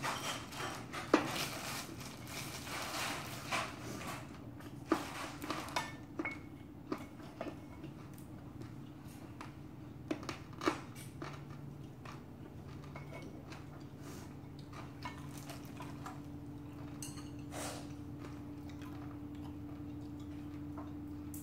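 Close-up chewing and crunching of rice mixed with hard pork cartilage (odolbyeo), with sharp clicks, then a few clinks of a spoon and chopsticks on a plate about ten seconds in. A low steady hum comes up in the second half.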